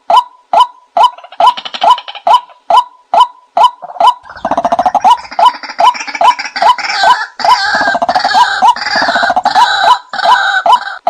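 Looped bird-call recording of the nok kai na field bird, used as a hunting lure. Short calls dropping in pitch repeat steadily at about two a second. From about four seconds in, a louder, dense chattering chorus of further calls, with a low rattle, runs over the pulses until just before the end.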